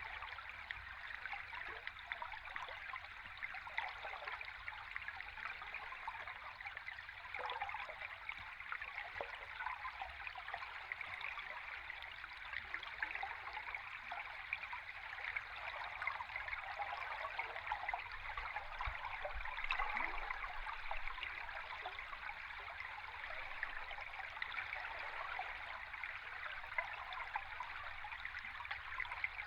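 Stream water flowing steadily, heard underwater, with many small gurgles and bubbles throughout.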